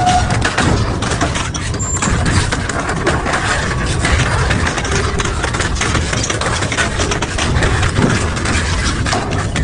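Heavy double-shaft shredder running under load, its motor droning low while the cutters crunch and tear through material with frequent sharp cracks.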